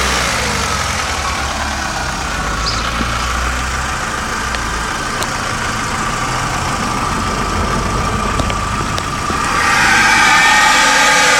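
Volkswagen Golf Mk4 engine running, with the strange noise that set in after it overheated. About nine and a half seconds in, a rising tone comes in and the sound grows louder and higher.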